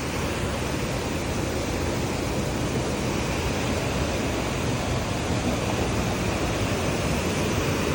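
Steady rushing of flowing river water, a constant even noise with no breaks.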